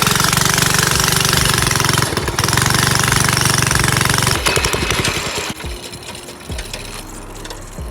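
Mini bike's small engine running loud and close, a fast chatter of firing strokes, dipping briefly about two seconds in and then fading away after about four and a half seconds.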